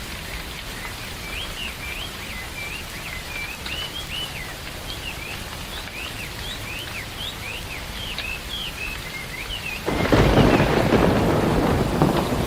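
Steady rain falling, with a bird calling over it in a quick series of short up-and-down chirps. About ten seconds in, a loud thunderclap breaks in and rumbles on.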